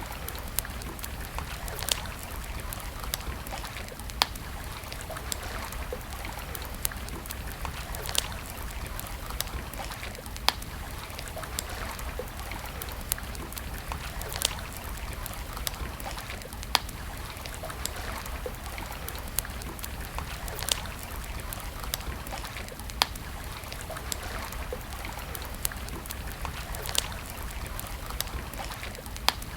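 Wood campfire crackling, with sharp single pops about every second or two. Under it runs a steady rush of running water.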